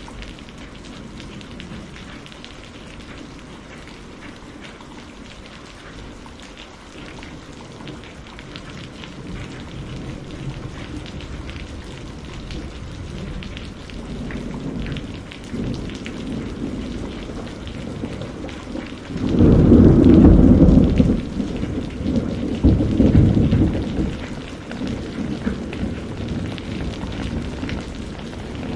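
Steady rain hissing, with thunder rumbling in about halfway through and building to a loud crack and peal about two-thirds of the way in, then a second roll a few seconds later.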